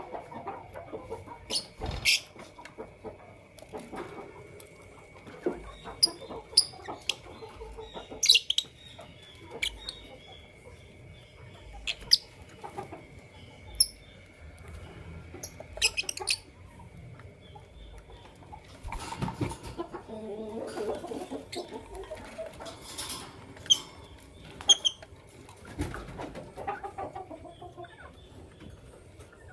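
Fischer's and masked lovebirds chirping: many short, sharp calls scattered irregularly, some much louder than others. A faint steady high whine sits underneath and stops about two-thirds of the way through.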